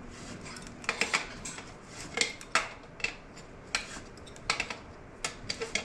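Irregular sharp metallic clinks of a wrench on the exhaust as the O2 sensor is worked loose and unscrewed.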